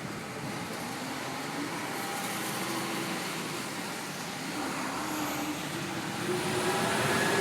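Street traffic: a motor vehicle running and passing by, growing louder near the end.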